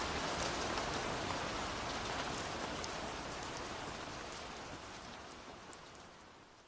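Steady rain falling on a surface, with scattered individual drop ticks, fading out gradually to quiet.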